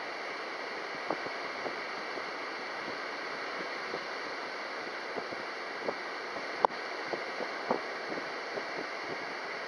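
Steady wind noise, strong and gusty enough to trouble a small light glider, with a few faint ticks and one sharp click about two-thirds of the way through.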